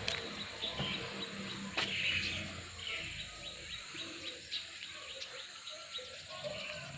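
Birds chirping, with a run of quick, evenly spaced high ticks in the middle and one sharp click about two seconds in.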